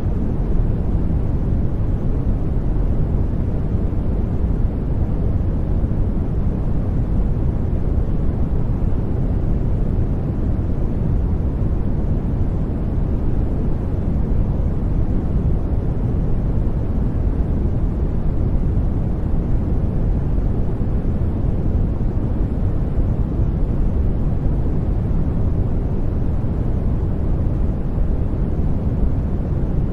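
Steady generated noise from a noise generator, unchanging and even, heavy in the low range with only a faint high hiss, so it sounds deeper than pure white noise.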